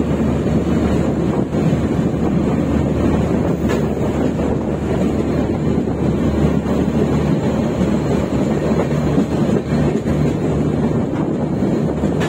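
Passenger train running along the track: a steady rumble of wheels on rail, with wind buffeting the microphone.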